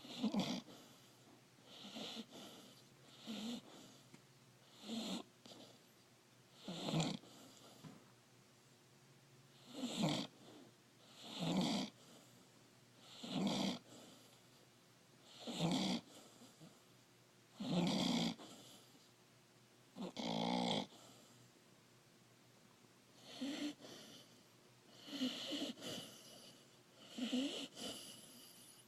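Puppy snoring in its sleep, one snore about every two seconds in a steady breathing rhythm.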